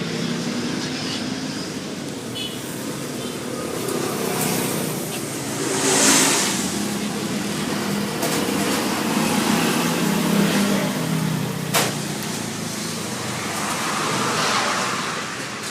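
Yamaha Fiz R two-stroke motorcycle engine running through an aftermarket racing exhaust, revved up and let fall back several times, loudest about six seconds in. A sharp click sounds near the end.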